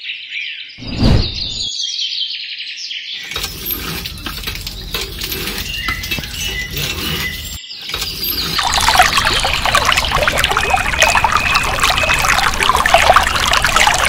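Water pouring from a small channel into a shallow plastic pool, a steady splashing stream that grows louder about halfway through. A soft thump comes about a second in, and birds chirp in the background.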